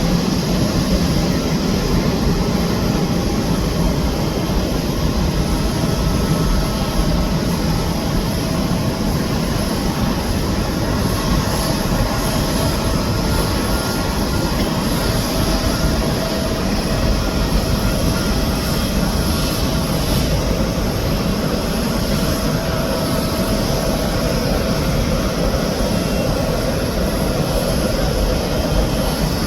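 Airbus A380 jet engines running, a steady, even rumble that neither rises nor falls, with a faint constant whine above it.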